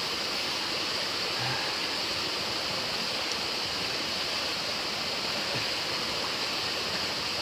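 Small, shallow stream flowing steadily: an even hiss of running water that does not change.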